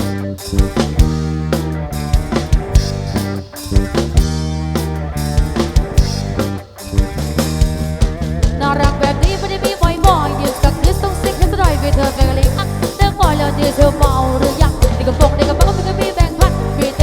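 Live band music through a PA system: a steady drum-kit beat under bass and chords, with a lead melody of sliding notes coming in about halfway through.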